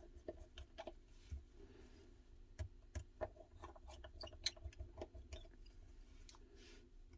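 Faint, scattered small clicks and ticks of a precision screwdriver and metal tools on tiny screws inside a phone.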